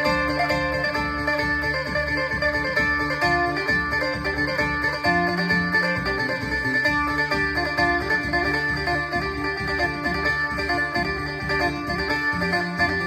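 Electric phin, the Thai Isan plucked lute, played through a Boss amplifier: a quick run of plucked melody notes over a steady low beat.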